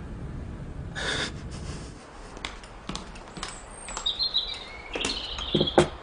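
Small birds chirping and tweeting in short high calls, with a few sharp knocks among them. A low rumble stops about two seconds in, and a short loud crash comes about a second in.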